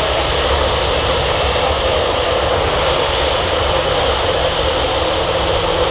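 Jet airliner's engines running at taxi power: a steady rumble with a whine held through it.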